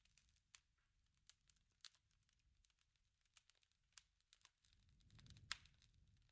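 Wood fire crackling softly, with irregular small pops and snaps. A louder pop comes about five and a half seconds in, over a brief low rumble.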